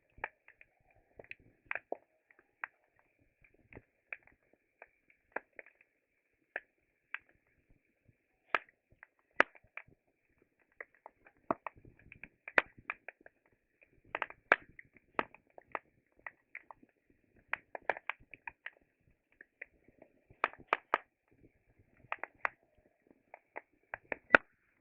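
Wood fire crackling: irregular sharp pops and snaps, some coming in quick clusters.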